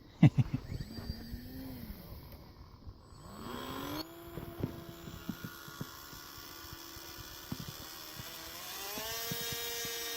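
Radio-controlled model airplane motor spooling up about three seconds in and holding a steady whine, then rising in pitch near the end as it is throttled up. A few knocks come in the first second.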